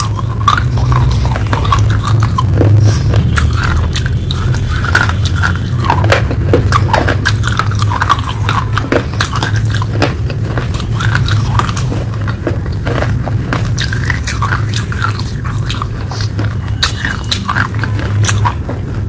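A person biting and chewing hard, crunchy clay pieces close to the microphone, with many crisp cracks and crunches throughout. A steady low hum runs underneath.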